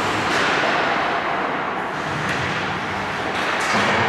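Ice hockey play on a rink: a steady wash of skates on ice and arena noise, with a few short sharp scrapes or stick clacks, about a third of a second in, around two seconds in and twice near the end.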